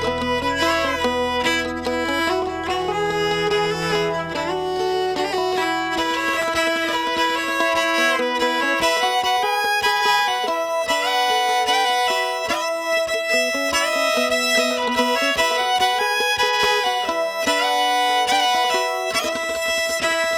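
Instrumental outro of a folk band's song: a fiddle plays a sliding melody over plucked strings. The low bass drops out about eight seconds in, and the band keeps going with the fiddle and plucked strings.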